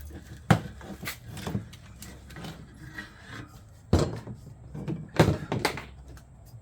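Irregular knocks and clunks as a bicycle wheel is handled and fitted into a truing stand, with the stand being adjusted: about six sharp hits, the loudest around four and five seconds in.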